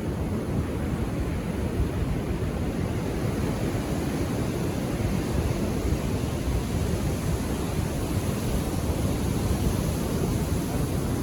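Ocean surf washing onto a beach: a steady, even low rush with no distinct breaking crash.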